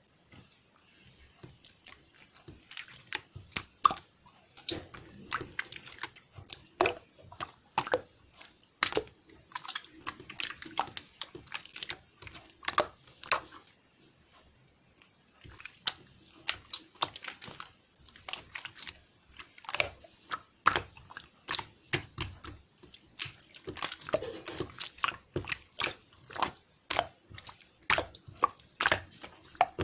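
Close, crisp crunching and crackling: dense irregular clicks in clusters, pausing briefly about halfway through.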